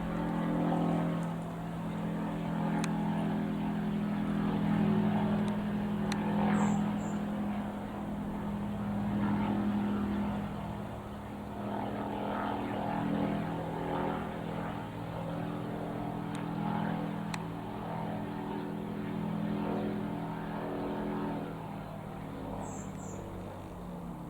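Piston engine of a Zenair CH-601HD Zodiac light aircraft running steadily at an even speed, a little quieter near the end.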